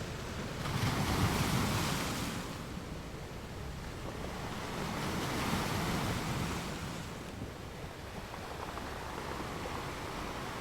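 Gulf waves breaking and washing up the beach, two surges about a second in and around five seconds in, with wind buffeting the microphone.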